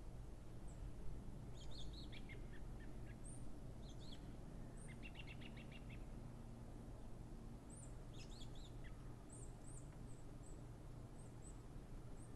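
Small birds chirping and calling: short high chirps scattered throughout, with quick trilled runs of notes about two and five seconds in and again near eight seconds, over a low steady rumble.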